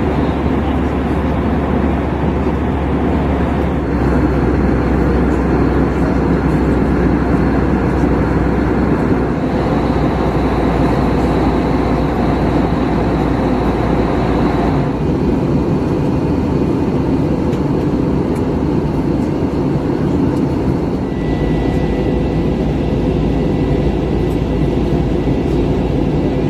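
Airbus A321 cabin noise in flight: a steady rushing drone of engines and airflow, with a faint high whine over it. Its tone shifts a few times, about 4, 15 and 21 seconds in.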